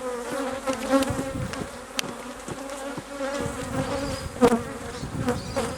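Honey bees buzzing in a steady drone around an open hive during a frame inspection, with a few light knocks and clicks as frames are handled.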